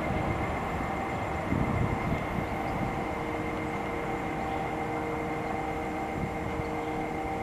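NJ Transit electric push-pull commuter train rumbling steadily as it pulls away into the distance, with a steady hum of several held tones over the rumble.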